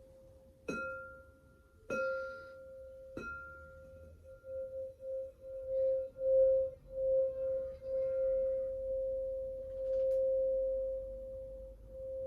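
Small crystal singing bowl struck three times about a second apart, each strike ringing one clear steady tone with a fainter higher overtone. The tone is then kept sounding, swelling and fading in uneven waves before it holds steady and loud near the end.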